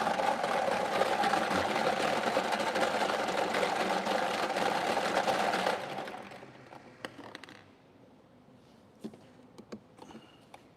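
Lottery draw machine running with numbered balls rattling inside, then switching off about six seconds in and dying away, followed by a few light clicks.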